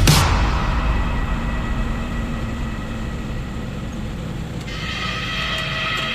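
Loaded truck's engine and drivetrain running with a steady low rumble, opening with a hiss that fades over about a second. Steady high tones join about three-quarters of the way through.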